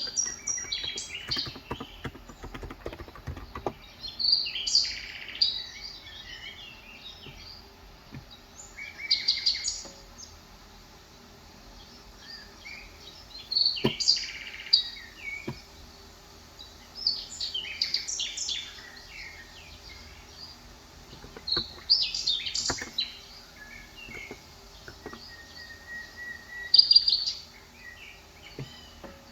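Small birds chirping in short bursts of quick, high twittering, several times over. A few soft keystrokes on a Cox Endeavor 35 g electrostatic capacitive keyboard come through, most of them in the first few seconds.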